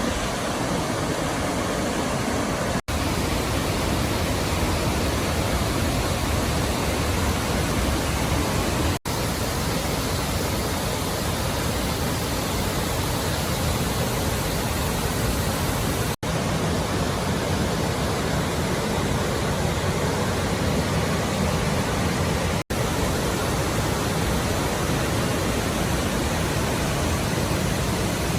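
Steady rushing of a large waterfall on the Genesee River, broken by four momentary dropouts where clips are joined.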